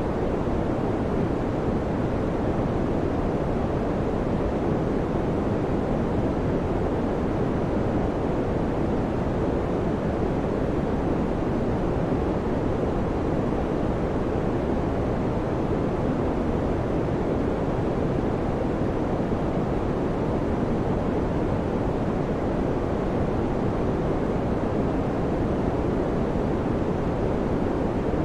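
Electric fan running steadily, a constant low whooshing rush of air with no change in level.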